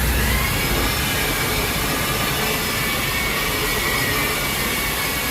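Electric wall sanding machine running steadily: a motor whine over a rushing noise, its pitch rising slightly at the start.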